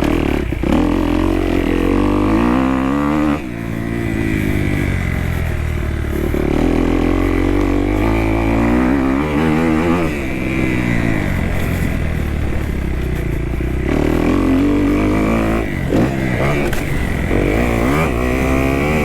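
Kawasaki KX250F's single-cylinder four-stroke engine under hard riding, its pitch climbing and falling again and again as the throttle is worked and the gears are shifted.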